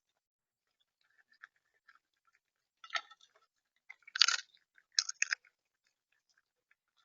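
A bird pecking and cracking seed on a feeder close to the microphone: irregular sharp clicks and crunches, loudest in a cluster about four to five and a half seconds in.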